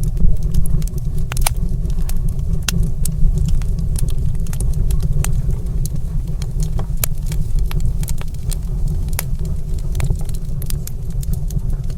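Fireplace fire burning: a steady low rumble of flames with irregular sharp crackles and pops scattered throughout.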